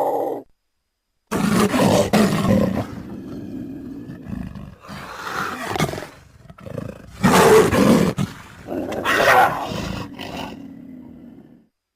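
Big cat roaring and growling: a roar cuts off just after the start, then after a brief silence a long run of roars and snarling growls with several loud peaks, fading out about a second before the end.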